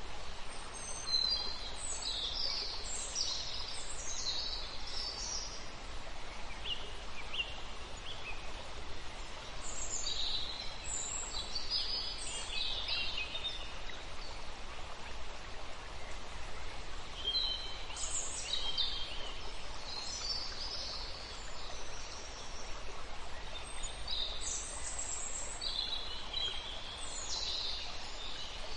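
Birds singing in short clusters of high chirps every several seconds over a steady hiss.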